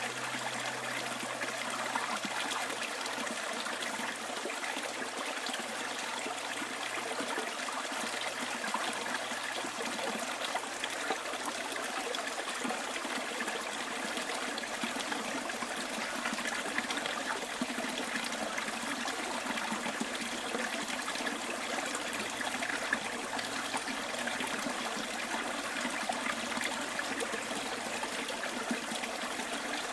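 Stream trickling and babbling steadily.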